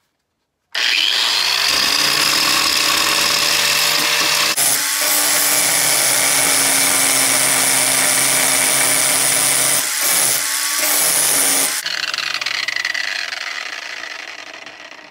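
Electric grinder switched on, spinning up, and grinding on metal for about eleven seconds, with a few brief dips in load. It is then switched off and winds down over about two seconds.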